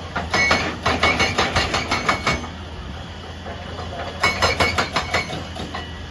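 Excavator's hydraulic breaker hammering in two bursts of rapid, ringing metallic blows, each about two seconds long, with the machine's engine running steadily underneath and in the pause between them.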